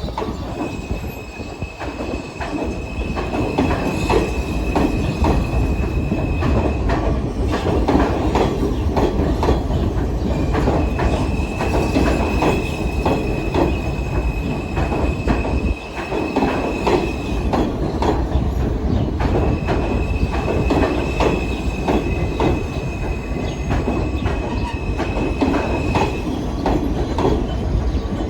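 New York City Subway train running on steel rails, its wheels clattering over rail joints and switches. A steady high wheel squeal comes in three times, each lasting six or seven seconds.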